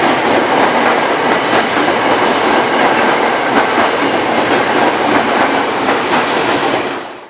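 KRL commuter electric train passing close by in heavy rain, wheels clacking over the rail joints under a dense steady hiss. The sound fades out quickly near the end.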